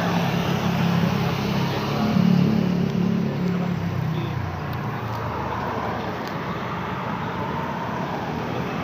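Road traffic on a busy street, cars and motorbikes going by. A vehicle's engine passes close and is loudest about two seconds in, then the sound settles into a steady hum of tyres and engines.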